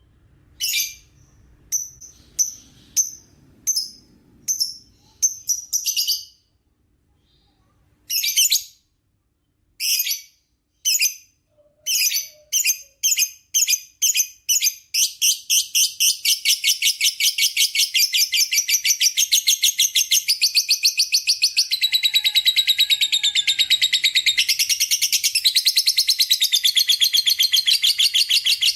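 Lovebird chattering in short high-pitched bursts, then from about fifteen seconds in breaking into one long unbroken rapid chatter: the long 'ngekek' that lovebird keepers use as a training recording.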